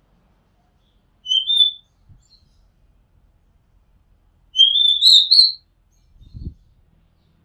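Oriental magpie robin singing two clear whistled phrases, a short one a little over a second in and a longer rising one at about the middle. Near the end there is a short low thump.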